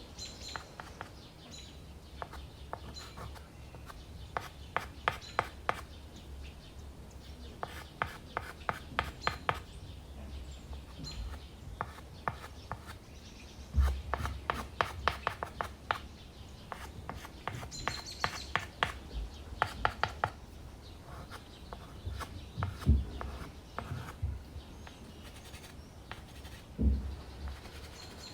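Dry pastel stick scratching across primed canvas in runs of quick, short hatching strokes, several ticks a second, with a few dull bumps.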